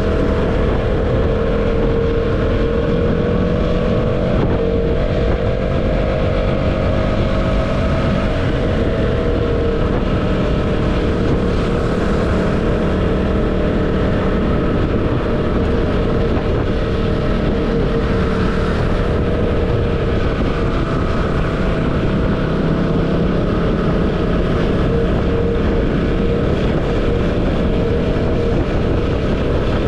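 Motorcycle engine running steadily at riding speed, with heavy wind rumble on the microphone. The engine note rises slightly in the first several seconds, then holds.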